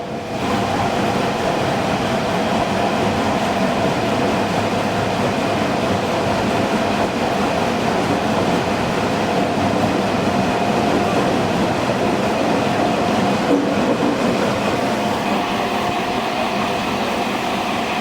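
Senboku Rapid Railway 5000 series electric train running, heard from inside the car: a steady rumble of wheels on rail with a few held tones, starting abruptly a moment in.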